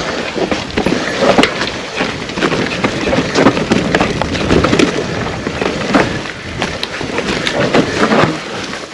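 Mountain bike riding down a forest singletrack: tyres rolling over dirt and leaf litter, with a constant stream of rattles and knocks from the bike.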